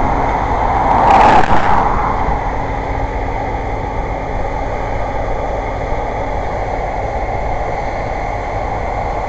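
Steady motor-vehicle and road noise, with a brief louder whoosh of a vehicle passing about a second in.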